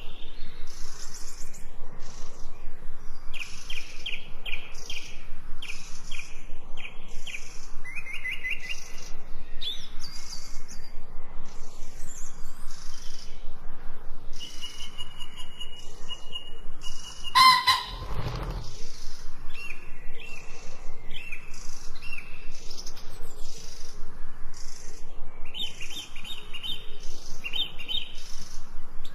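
Small songbirds chirping and twittering in quick, repeated short phrases. About two-thirds of the way through, one brief, louder sound with a low thud stands out.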